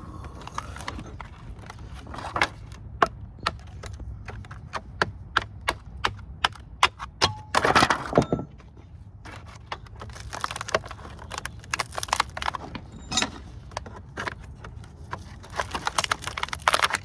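Copper transformer windings being worked loose by hand: many sharp metallic clinks and knocks, with a dense burst of rattling about eight seconds in and more clustered clatter later on.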